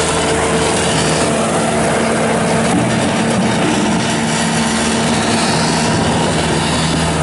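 Bobcat S650 skid steer's Kubota V3307 four-cylinder diesel running steadily at speed, its pitch lifting slightly about a second in.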